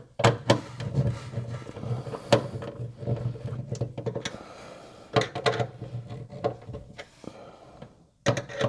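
Sauna parts being handled during assembly: a run of knocks and clicks over a low rumble, which fades out near the end.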